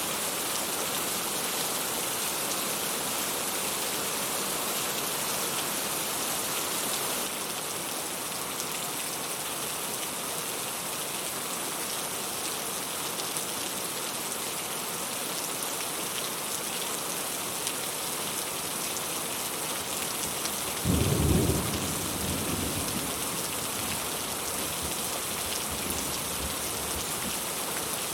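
Steady rain falling, an even hiss, with a single clap of thunder about three quarters of the way through that rumbles low and dies away over a few seconds.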